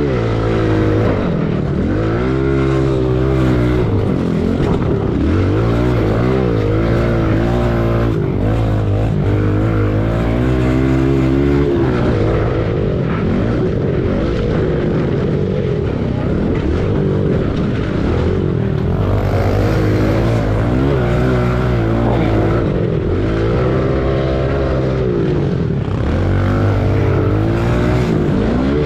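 Single-cylinder pit bike engine racing, revving up and falling back over and over as the bike accelerates and slows.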